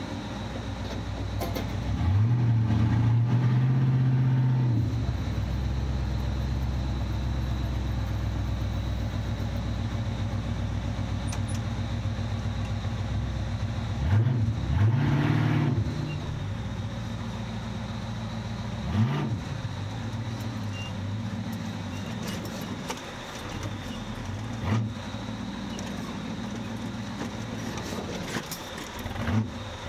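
1972 Ford Bronco's engine running under load, revving up about two seconds in and holding for a few seconds before easing off, then a few short throttle blips, rising and falling, around the middle and near the end.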